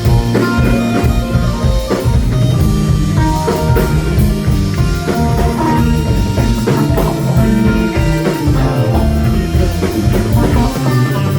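Live prog rock band playing an instrumental passage: drum kit, bass, guitar and keyboards, dense and loud throughout.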